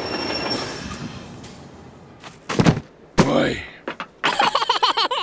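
Cartoon train noise fading away as the train comes to rest, then a couple of heavy thumps as a character and a suitcase drop onto the platform, the second followed by a falling vocal cry. Wavering cartoon-creature vocal sounds near the end.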